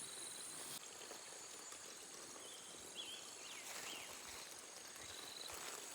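Faint forest ambience: a steady high-pitched insect drone, with a few short, faint chirps.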